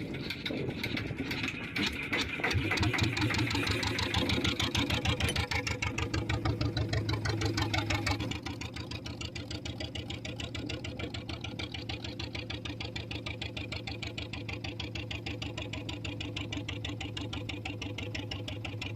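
Fishing boat's engine running with a fast, even pulse. It runs harder for several seconds, then eases back to a lower, steady speed about eight seconds in.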